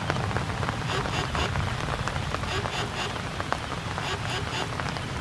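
Steady rain falling and pattering on surfaces, with many separate drop hits.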